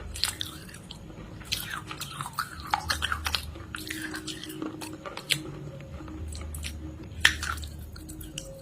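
Close-up crunchy chewing and biting: irregular runs of sharp crunches, with one loud bite a little after seven seconds in.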